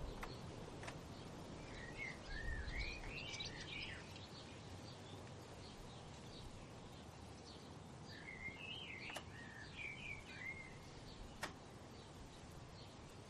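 Songbirds singing: two warbling phrases of quick rising and falling notes, one about two seconds in and one about eight seconds in, each lasting two to three seconds. Short high chirps repeat steadily throughout over a low background rumble, with a few sharp clicks.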